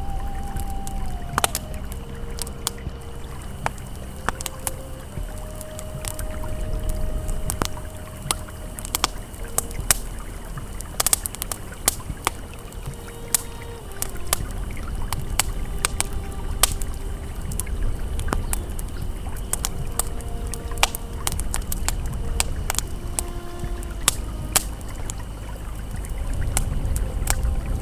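Campfire crackling, with frequent sharp pops and snaps, over the steady low rush of a flowing river. Faint held tones come and go in the background.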